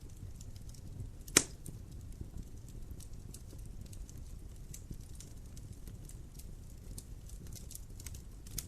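Wood fire in a fireplace crackling, with many small irregular pops over a low steady rumble and one loud sharp pop about one and a half seconds in.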